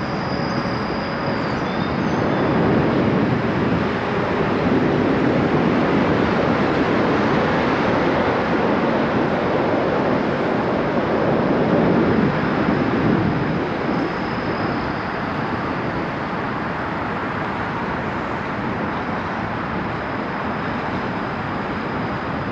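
Steady rushing noise of wind and tyres while riding a bicycle, a little louder in the first half.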